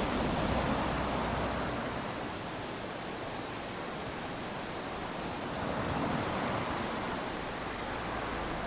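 Small waves lapping onto a sandy beach: a steady hiss of surf that swells gently twice, once near the start and again about six seconds in.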